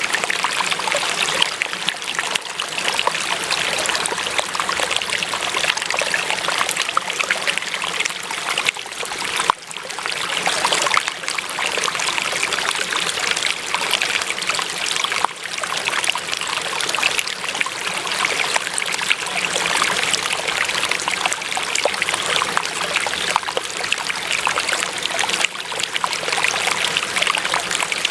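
Water trickling and burbling steadily, a stream running over stones.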